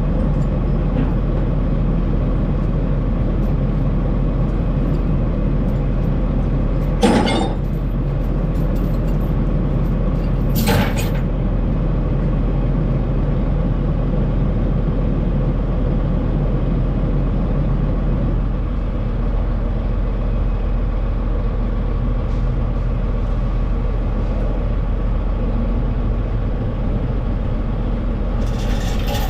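Semi truck driving down the road: steady engine and road noise, with two short sharp knocks about seven and eleven seconds in.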